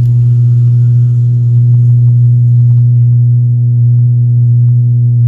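Mass MS2195BT multimedia speaker system giving out a loud, steady low hum with several overtones instead of any audio. The hum does not change with the volume setting; the owner suspects a failed amplifier IC or transistor.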